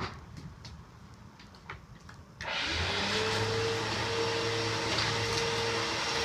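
Hoover Elite Rewind upright vacuum cleaner switched on about two and a half seconds in, after a few light clicks; its motor spins up quickly and then runs at a steady pitch.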